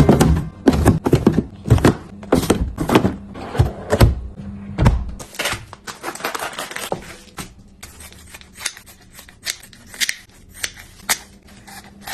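Food packages and storage containers being handled and set down while a fridge is stocked: a quick run of knocks, clicks and rustles, heavy and dense for the first five seconds, then lighter and sparser.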